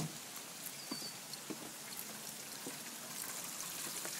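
Steady rain falling and pattering on surfaces, with a few faint light taps through it.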